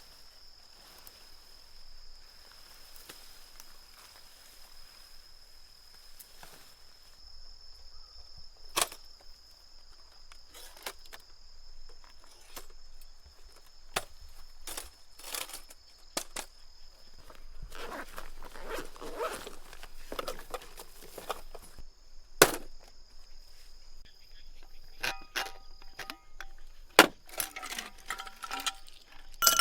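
A steady high-pitched insect drone with scattered sharp clicks and knocks of things being handled. Near the end comes a run of glass clinks that ring on briefly.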